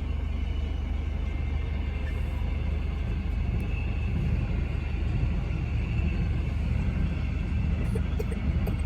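Train passing with a steady low rumble that grows slightly louder in the second half.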